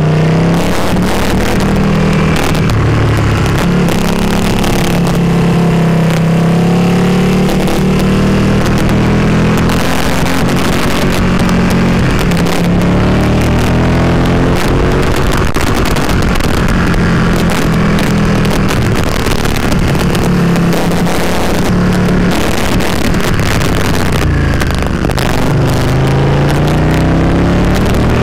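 Ducati Panigale 959's L-twin engine running under way, its pitch rising and falling again and again with throttle and gear changes, over steady wind rush.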